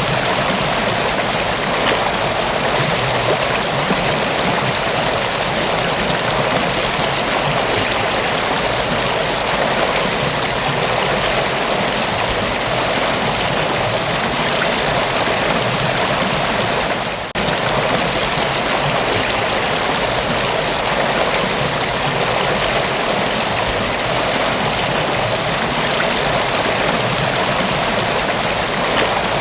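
Mountain waterfall: a steady, dense rush of falling and flowing water, with one brief drop in level a little past halfway.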